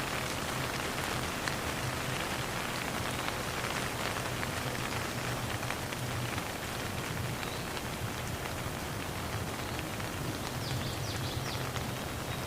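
Steady rain falling: an even hiss with many scattered individual drop taps. A few short high chirps come through near the end.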